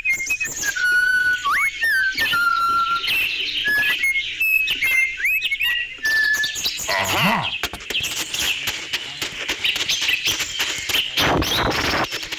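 Birds chirping and whistling: clear held notes and quick rising glides, then a denser chatter of chirps from about halfway through.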